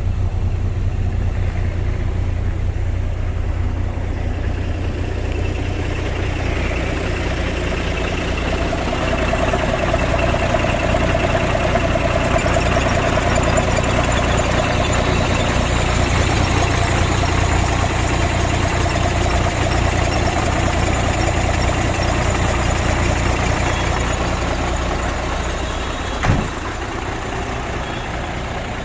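MAN 26.361 truck's diesel engine idling steadily, growing a little louder and fuller through the middle and easing back near the end, where a single sharp knock sounds.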